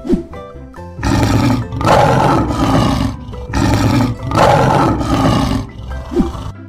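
Lion roaring twice, each roar about two seconds long, over light background music.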